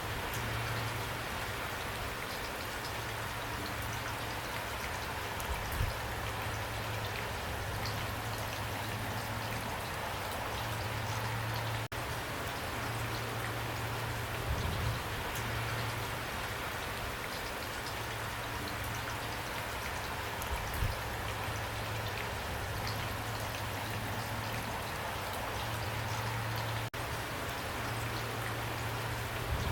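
Steady heavy rain pouring down, an even hiss of drops. A few louder drips knock about six, fifteen and twenty-one seconds in, and a low hum comes and goes underneath.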